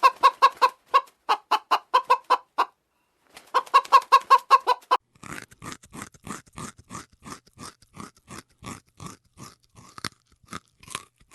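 A chicken clucking in quick runs of about five clucks a second, pausing briefly and resuming. About five seconds in, this gives way to a quieter, steady crunching, like an animal chewing, at about two bites a second.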